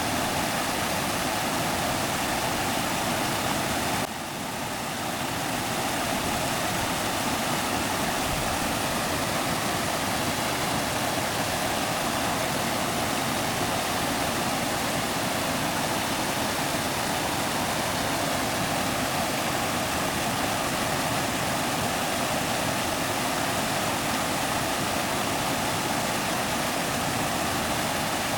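Stream water rushing steadily, with a brief dip in level about four seconds in.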